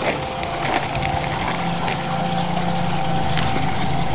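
Backyard koi pond waterfall splashing steadily into the pond, with a steady hum underneath and a few small ticks of dripping water.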